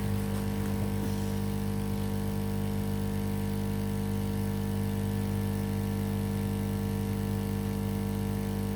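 Steady electrical hum from repair-bench equipment: a low, unchanging buzz made of several fixed tones.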